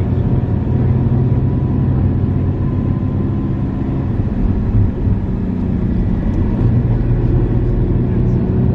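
Motor vehicle running at a steady pace, a loud continuous low rumble with an even engine hum.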